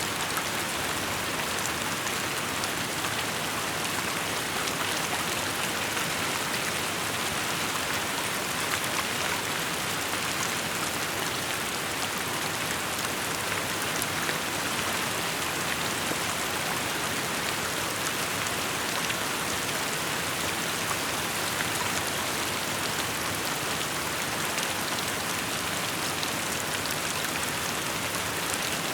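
Steady rainfall: an even hiss of many drops, with faint ticks of single drops picked out here and there.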